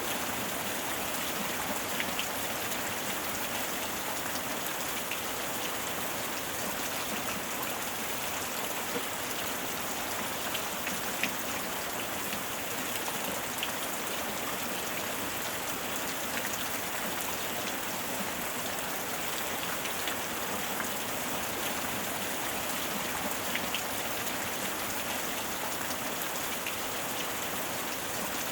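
Steady heavy rain falling on a surface, an even hiss with scattered individual drop clicks.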